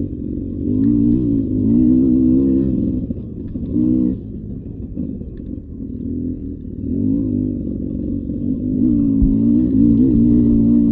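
Beta 300 RR two-stroke dirt-bike engine revving up and down, climbing about a second in, easing off through the middle and picking up again near the end.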